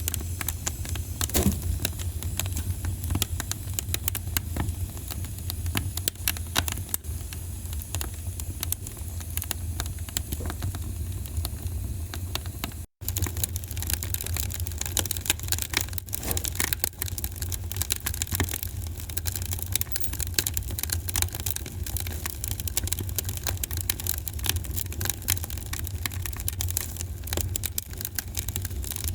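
Wood fire crackling and popping in a fireplace, frequent sharp snaps over a steady low rumble. The sound cuts out for an instant about thirteen seconds in.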